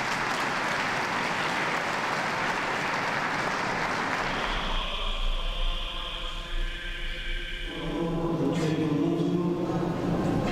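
Crowd applauding for the first few seconds, then voices chanting in a choir, the chant clearest near the end.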